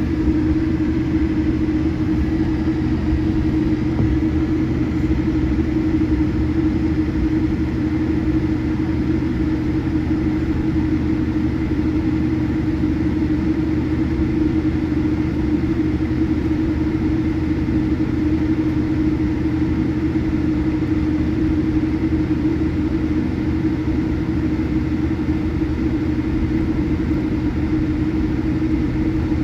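Steady drone inside the cabin of a Boeing 787-8 with its engines running: a constant low rumble with a steady hum on top, unchanging throughout.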